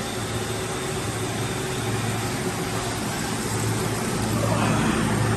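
Steady hum and hiss of machinery running in a machine shop, with a low hum that grows a little louder toward the end.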